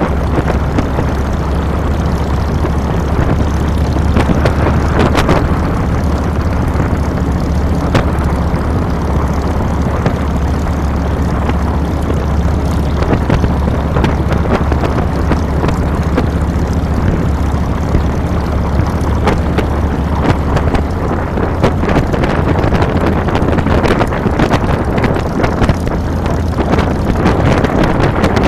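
Harley-Davidson Fat Boy's Twin Cam 96 air-cooled V-twin running steadily under way, with wind noise on the handlebar-mounted camera's microphone. The engine note changes about three quarters of the way through.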